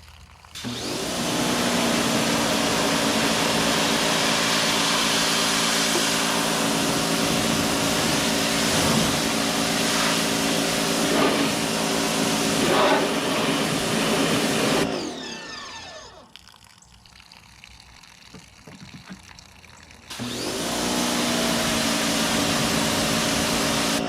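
Electric pressure washer running and spraying water: a steady motor hum under a loud hiss of spray. About 15 s in the motor winds down and stops, and about 20 s in it spins back up and sprays again.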